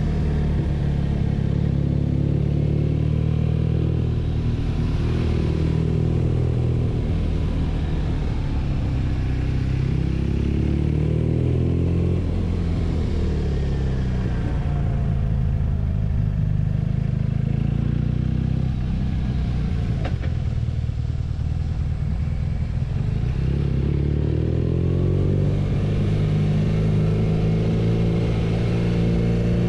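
BMW R nineT's 1170 cc air/oil-cooled boxer twin running under way, its revs rising and falling several times with the throttle.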